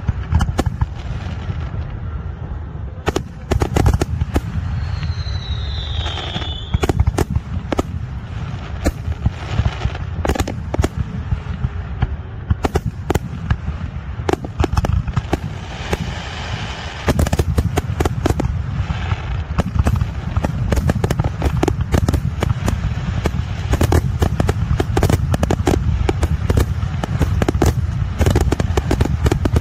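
Aerial fireworks display: shells bursting one after another in sharp bangs and crackles over a steady low rumble, with a short falling whistle about five seconds in. The bangs come thicker from about halfway through.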